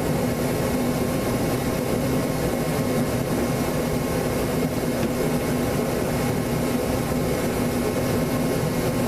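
Small glow-plug engine of a micro mini pulling tractor running steadily at a constant speed, with no revving.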